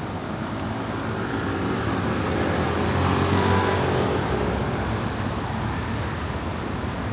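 Road traffic running, with a vehicle's low engine rumble swelling and passing about three to four seconds in over a steady hiss of street noise.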